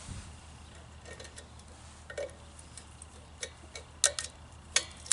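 Irregular small clicks and ticks of pliers working at a steel kill cable on a lawn mower, as the wire refuses to cut, the sharpest about four seconds in and again near the end.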